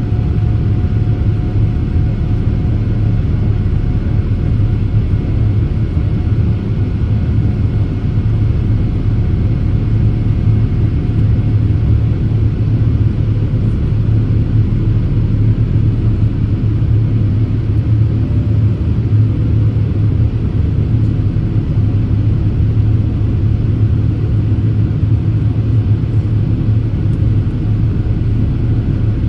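Steady cabin rumble of a Boeing 787-8 airliner climbing after takeoff: engine and airflow noise heard from inside the cabin, mostly deep, with faint steady tones above it.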